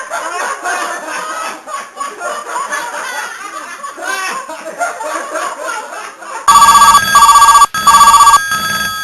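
A jumble of many overlapping voices, like a group chattering and laughing. About six and a half seconds in it is cut off by a much louder telephone ringing in short repeated bursts.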